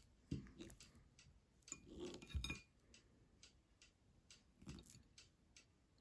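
Faint eating sounds: scattered light clicks and clinks like cutlery against a plate. There is a small knock about half a second in and a louder cluster around two seconds in.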